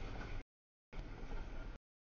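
CSX intermodal freight train passing: a steady rumble of wheels on rail, broken twice by dropouts where the sound cuts out completely for about half a second.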